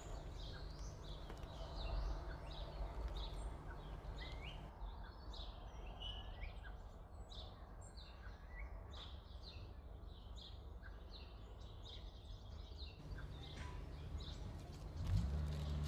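Birds chirping and twittering in the background: many short, high chirps over a steady low hum. A louder low sound comes in near the end.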